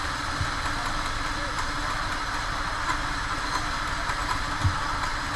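Kart engine idling steadily, with an even hiss over it.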